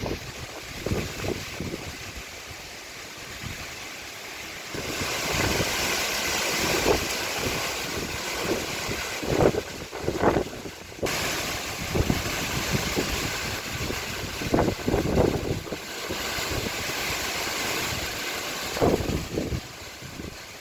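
Storm-force cyclone wind rushing in gusts, buffeting the microphone with uneven low rumbles. The rush grows louder about five seconds in.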